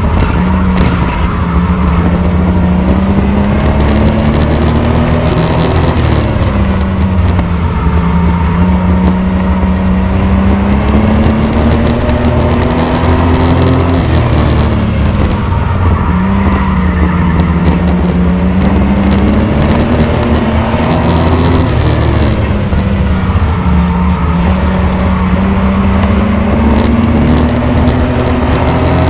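Racing pickup truck's engine running hard through laps of a short oval: its pitch climbs steadily for several seconds, then drops sharply, about every eight seconds, three or four times.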